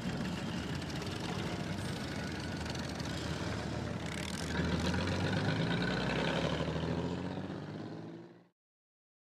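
Motorcycle engine running on the move, its pitch rising about halfway through as it accelerates. The sound fades out near the end, leaving about a second of silence.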